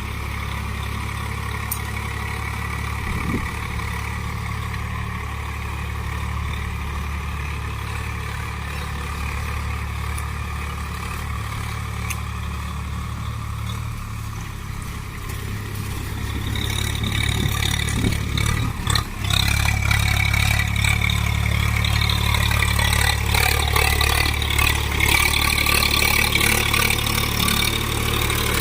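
Tractor diesel engine running steadily, then growing louder and busier a bit over halfway through and staying up, with a brief dip shortly after the rise.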